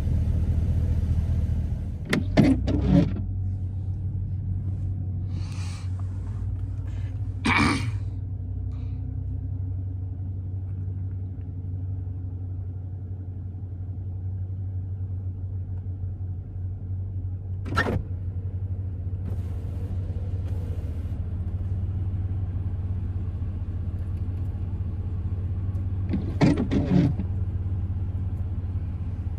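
Dodge Scat Pack's V8 engine running steadily, with four short sharp knocks or clicks: about two, eight, eighteen and twenty-seven seconds in.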